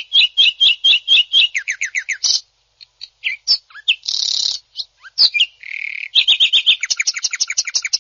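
Cucak ijo (green leafbird) singing a fast, rough song: rapid runs of sharp repeated notes, about six to eight a second, broken by a short rasping burst about halfway and a buzzing note, then another rapid run near the end.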